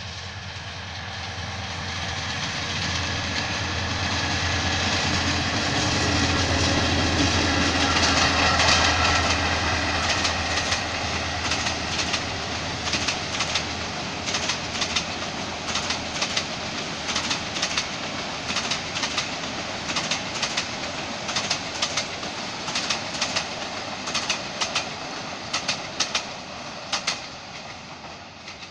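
Diesel locomotive of a passenger train passing close by, its engine hum swelling to its loudest about eight seconds in. Then comes a long run of clickety-clack from the coaches' wheels over the rail joints, in quick repeated clicks, slowly fading as the train draws away.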